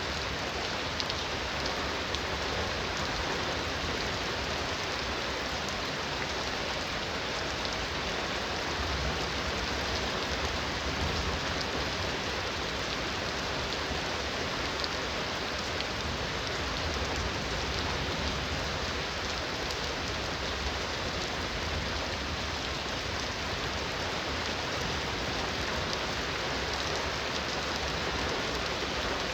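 Heavy rain falling steadily, a dense patter with scattered individual drops, over a low rumble.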